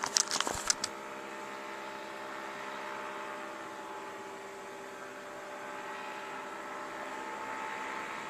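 A paramotor's small engine drones steadily in the air as a continuous pitched hum that swells gently in loudness. A few sharp clicks sound in the first second.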